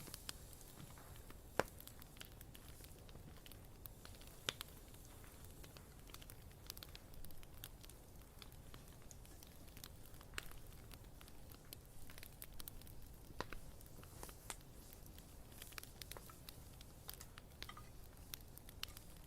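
Bonfire burning with frequent small crackles and occasional sharper pops from the wood, over a faint low hiss.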